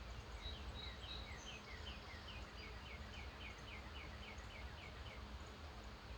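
A songbird singing a run of short, evenly spaced notes, each a quick downward slur, about three a second for roughly four and a half seconds, over a faint steady low hum.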